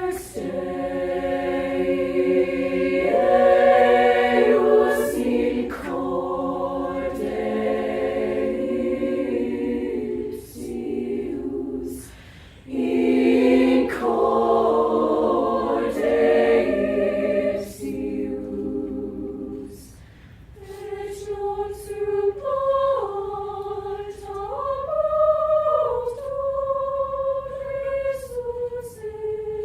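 High school choir singing in harmony: full sustained chords that break off twice, then a quieter, thinner passage with one line moving up and down over held notes.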